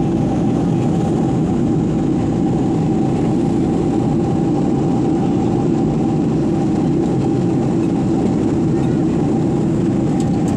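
Airliner cabin noise in flight: a loud, steady rush of engine and airflow noise with a constant hum through it.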